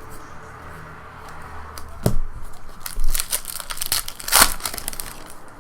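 Crinkling and tearing of trading card pack wrappers as cards are handled: scattered crackles, a sharp click about two seconds in, and a denser run of crinkling in the second half.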